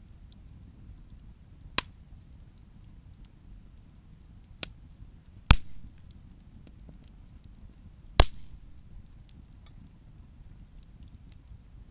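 Wood bonfire crackling, with a low steady rumble under scattered faint ticks and four sharp pops from the burning wood, the loudest two about five and a half and eight seconds in.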